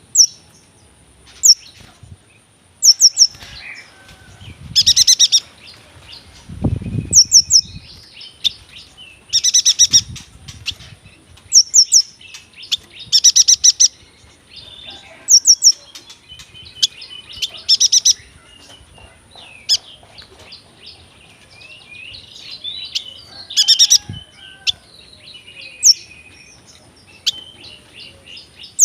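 Yuhina singing: repeated bursts of rapid, high-pitched chirping notes every second or two, with softer twittering in between, the long rolling song used as training audio for other songbirds.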